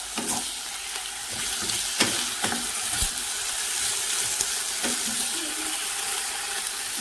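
Potatoes frying in oil in a pan, with a steady sizzle and a few knocks of a utensil stirring them.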